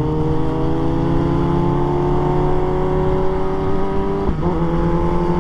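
Motorcycle engine running at steady cruising speed, its pitch slowly falling. A brief break comes about four seconds in, after which it runs on at a slightly lower pitch, over low wind rumble.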